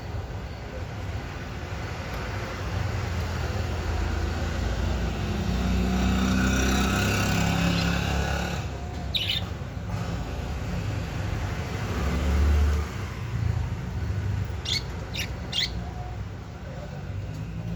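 Traffic rumble from a passing vehicle, swelling and fading in the middle, with budgerigar chirps: one short chirp about halfway through and three quick chirps near the end.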